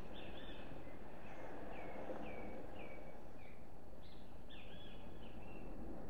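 A songbird calling: a run of about five short, falling notes, then a longer note near the end, over a steady low rush of background noise.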